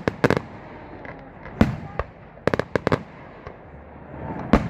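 Fireworks going off: sharp bangs and pops in quick clusters, including a rapid run about three seconds in, with the loudest single bang near the end.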